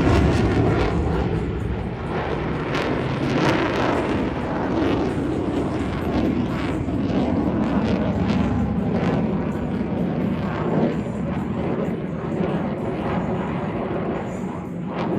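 Jet aircraft engine noise from a display flight, a dense rushing sound that is loudest at the start, settles to a steady level, then swells sharply again right at the end.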